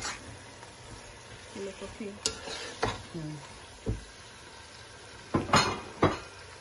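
Onions, greens and meat sizzling in hot oil in a pot while a metal spoon stirs them, knocking and scraping against the pot several times, loudest about five and a half seconds in.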